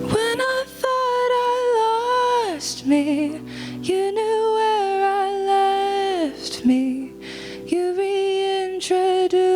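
A woman singing a slow worship song in long, held, wordless phrases, some notes wavering with vibrato, over soft keyboard-style accompaniment.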